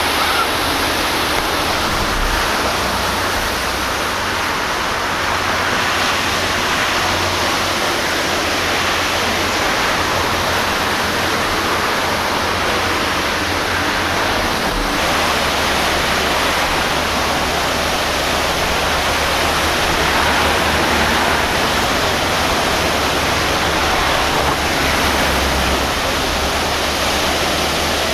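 Sea surf washing steadily at the shore: an even, rushing noise, with some low rumble underneath.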